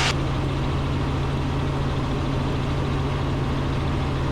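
Robinson R44 Raven II helicopter in cruise flight, heard from inside the cockpit: the steady drone of its Lycoming IO-540 six-cylinder piston engine and rotors, with a strong low hum.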